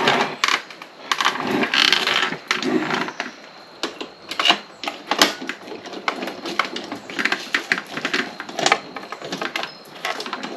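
Irregular clicks, taps and knocks of small plastic parts being handled and pushed into place while a light is fitted into a motorcycle's lower fairing, with some rustling in the first few seconds.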